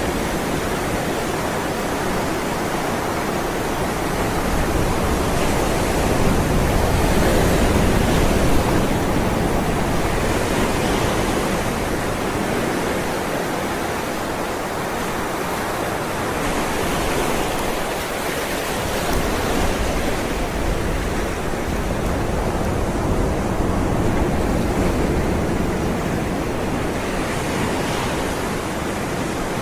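Ocean surf: waves rolling and breaking in a continuous wash, swelling gently every several seconds.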